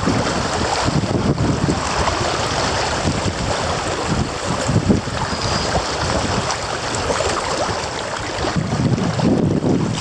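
Wind buffeting the microphone in uneven low gusts, over a steady rush of moving creek water during kayaking.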